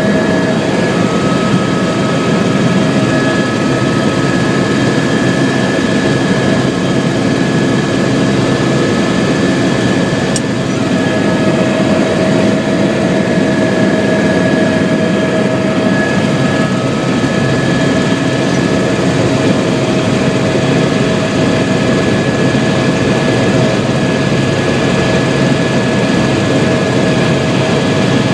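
Helicopter's turbine engine and rotor running steadily: a loud, even noise with a steady high whine held over it.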